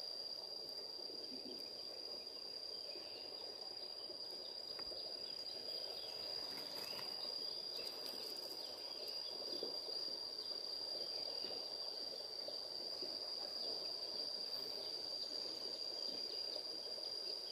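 Insects trilling in one steady, unbroken high-pitched tone, over a soft even background of outdoor noise.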